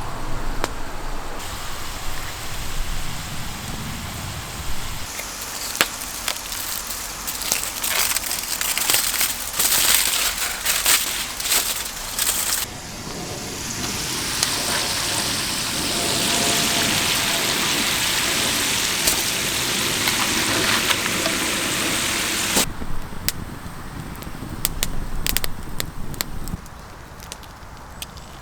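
Campfire crackling with scattered sharp pops, broken by a long stretch of steady hiss in the middle.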